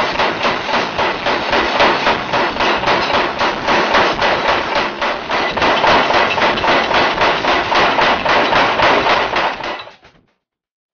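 Pneumatic forging hammer striking steel for a kitchen knife in rapid, even blows, about four a second, then cutting off suddenly near the end.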